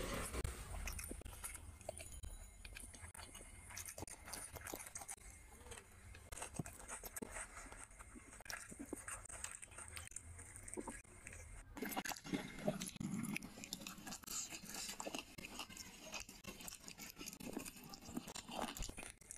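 A person chewing and biting grilled chicken close to the microphone: a steady run of short mouth clicks and smacks.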